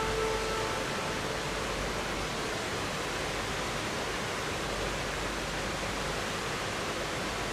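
River water rushing as a steady, even hiss, with a few faint held tones dying away in the first second.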